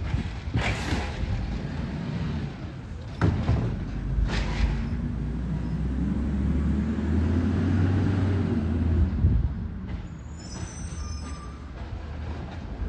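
Garbage truck's diesel engine running and building up, with several short hisses of air in the first few seconds. Brief high squeals follow near the end.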